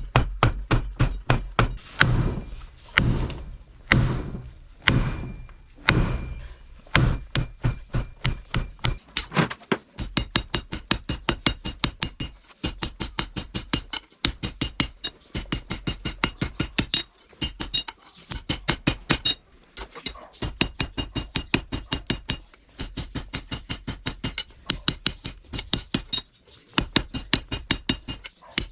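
Hammer blows forging steel from a thick truck spring on an anvil: a long run of sharp strikes, heavier and more spaced in the first ten seconds, then a steady pace of about three a second, many of the later blows with a metallic ring.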